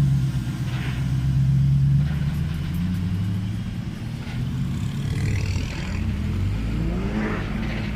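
Car engines running with a deep, steady drone that drops in pitch about two seconds in, with a rising engine note near the end.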